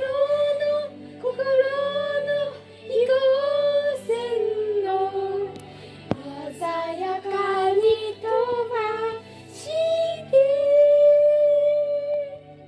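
Children singing a Japanese song over backing music, in short sung phrases, with a long held note about ten seconds in.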